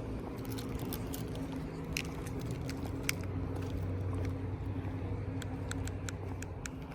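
A steady low mechanical hum, like an idling vehicle engine, with scattered light clicks and taps over it.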